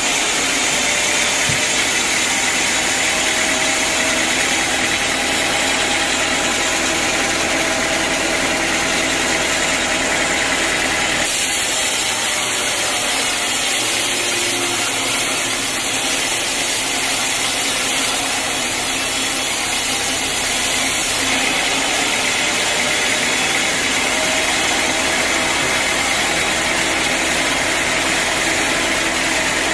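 Sawmill machinery running with a loud, steady mechanical noise. The sound changes abruptly twice, about eleven and twenty-one seconds in.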